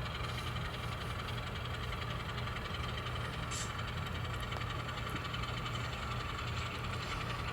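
N scale model locomotive running along the layout's track: a steady low hum from the motor and wheels.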